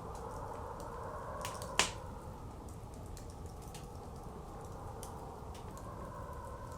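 Wood fire crackling with scattered small pops and one loud, sharp pop about two seconds in, over a steady blizzard wind.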